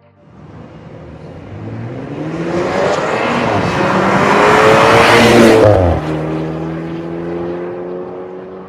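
BMW N20 turbocharged four-cylinder engine through an MS-R valved cat-back exhaust, accelerating with its note rising steadily in pitch and loudness. About six seconds in the pitch and level drop suddenly, and the lower note then holds and fades.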